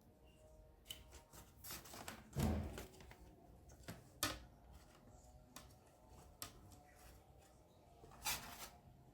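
Scattered knocks, clicks and rubbing of household objects being handled, with a heavier thump about two and a half seconds in and a short scraping burst near the end.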